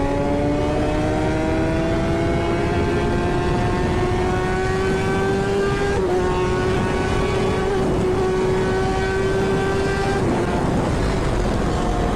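Kawasaki Ninja ZX-10R's inline-four engine under way. Its pitch climbs slowly for about six seconds, holds steady, then drops near the end.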